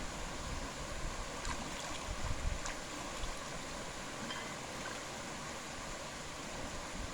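Steady outdoor hiss, with wind buffeting the microphone in low gusts during the first few seconds and a few faint clicks.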